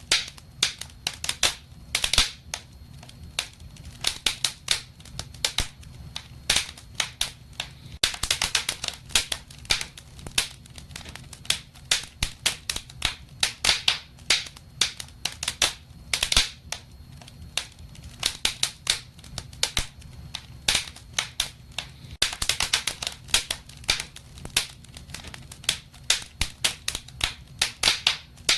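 Wood fire crackling in a fireplace: dense, irregular pops and snaps that come in busier clusters every few seconds, over a low steady rumble.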